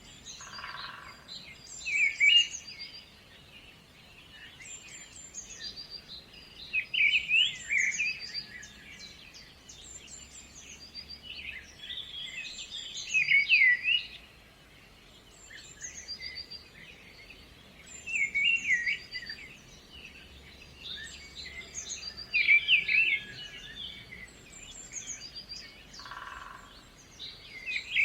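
Songbirds singing: a loud burst of quick chirping song about every five seconds, with short high chirps repeating in between.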